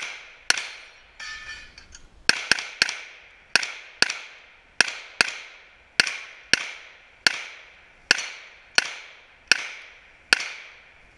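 A string of about sixteen pistol shots fired at a steady pace, one every half second to a second, each with a brief echoing tail.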